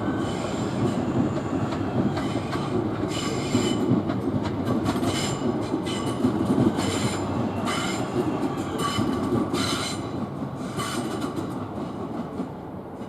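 Electric multiple-unit train running past on the approach tracks, a steady rumble of wheels on rail with short bursts of high wheel squeal about every second, fading toward the end.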